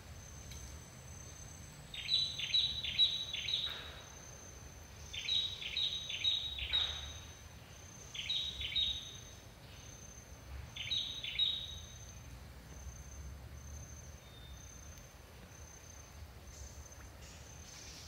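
A bird calling in four bursts, each a quick run of four or five sharp, high notes, over a steady high-pitched insect drone.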